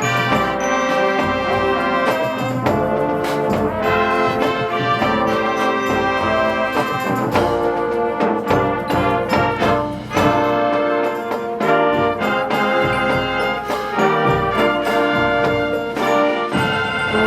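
High school marching band playing, brass leading with trombones and trumpets over a steady drum-line beat.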